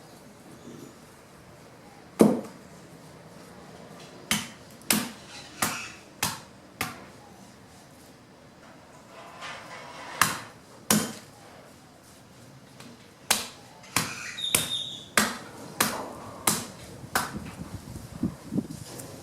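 Fallen branches being chopped into wood chips with a hand tool: a series of sharp chops, some in quick runs about half a second apart, with pauses between.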